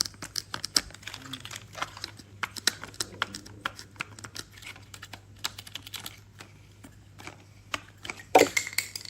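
Toy pieces being handled, making a run of quick, irregular clicks and taps, with one louder knock near the end.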